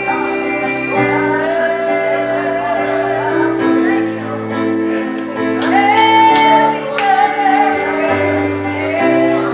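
Slow gospel singing with a wavering solo voice, carried over long, sustained instrumental chords.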